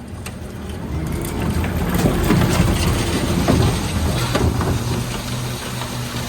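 Dennis Elite 6 refuse truck's engine running steadily, with loud rattling and clattering from about a second and a half in, dying down after about five seconds, typical of a recycling bin of cans, plastics and glass being tipped into the hopper.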